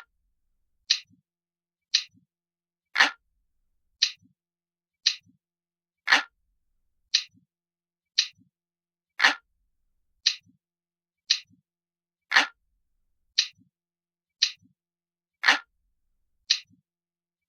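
Ticking clock sound keeping time for a countdown timer: crisp, even ticks about once a second, every third tick somewhat fuller.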